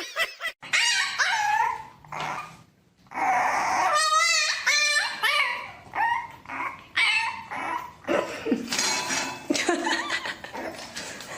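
A dog whining and yipping in a run of short pitched calls with brief pauses between them, one call wavering about four seconds in.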